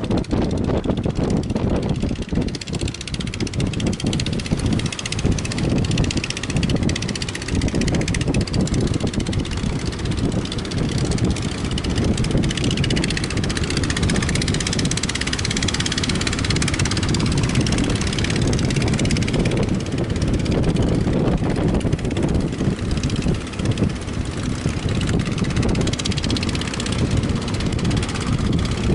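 Strong wind buffeting the microphone, a continuous rough rumble that rises and falls in gusts.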